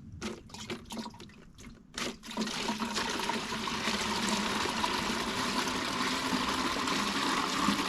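A few light knocks, then from about two seconds in a steady rush of water pouring into a container. The water is being mixed with granular NPK fertilizer to dissolve it into a liquid feed.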